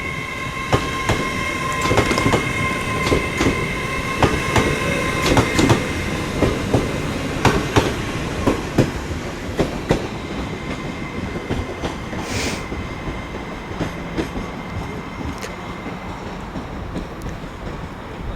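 Passenger train pulling out, its wheels knocking over rail joints and pointwork in an irregular run of clicks that thins out after about ten seconds, over a steady high whine. A short hiss comes about twelve seconds in.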